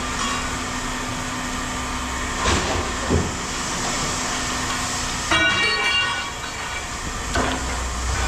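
Steady rumble of running machinery, with knocks about two and a half, three and seven seconds in, and a brief high squeal about five seconds in.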